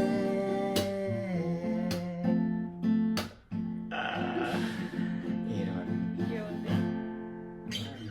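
Music: strummed acoustic guitar chords, with a brief break about three and a half seconds in, growing quieter toward the end.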